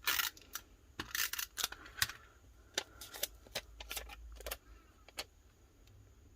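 Paper pieces and stickers being handled and laid down: a run of crisp rustles and light clicks, busy for the first four or five seconds and then sparse.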